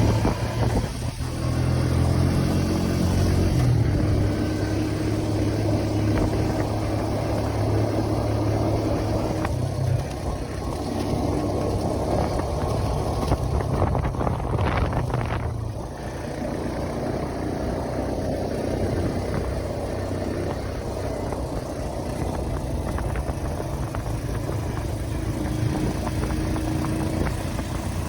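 A vehicle engine running while driving over rough ground. Its note shifts about ten seconds in and again about sixteen seconds in, and a brief louder rush comes just before the second change.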